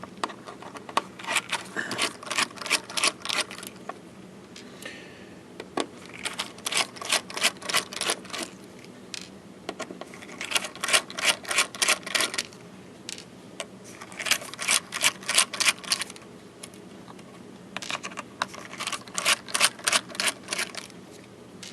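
Screwdriver backing the cover screws out of a hard drive, heard as about five bursts of rapid clicking, each lasting a couple of seconds with short pauses between.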